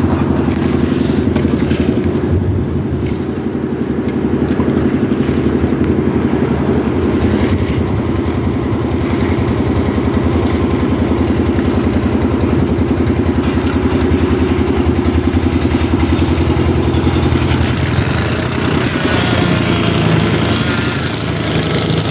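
An engine running steadily at constant speed, with a fast, even pulse and no change in pitch.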